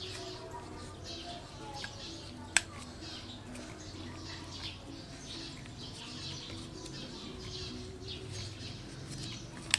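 Small birds chirping over and over in the background over a low steady hum, with two sharp clicks, one about two and a half seconds in and another near the end.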